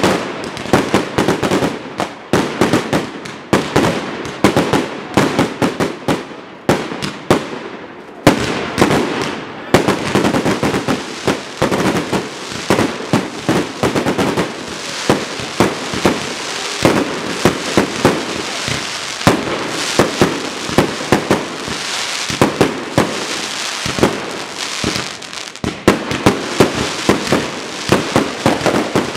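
A fireworks display firing continuously: rapid, overlapping bangs from shells and cakes. Through the middle stretch a dense crackling hiss thickens under the bangs.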